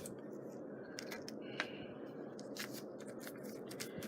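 Faint, irregular light clicks and rustles of craft materials and tools being handled, over a low steady room noise.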